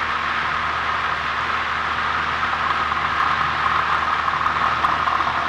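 1977 Cessna 172N's four-cylinder Lycoming engine and propeller running steadily at full takeoff power as the plane begins its takeoff roll.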